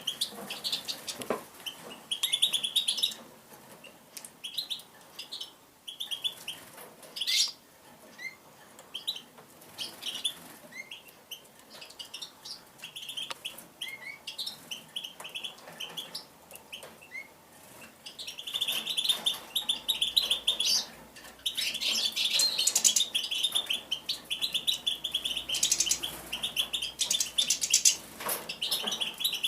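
A tame songbird chirping: short, scattered high chirps at first, then rapid, near-continuous twittering from about two-thirds of the way in.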